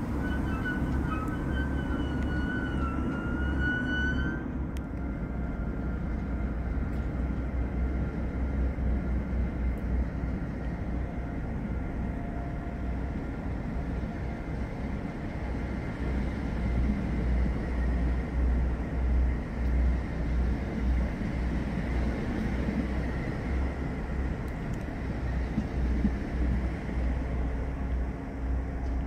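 Double-deck regional train pulling out past the platform: a steady rumble of wheels on track as the coaches roll by and draw away. A wavering high whine is heard over it for the first four seconds or so.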